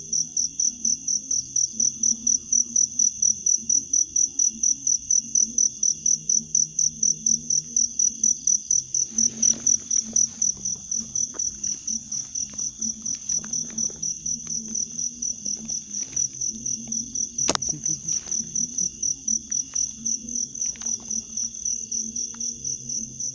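An insect, cricket-like, calling in a steady high-pitched pulsing trill of about three to four pulses a second. From about nine seconds in there are scattered soft clicks and knocks, with one sharp click about three-quarters of the way through.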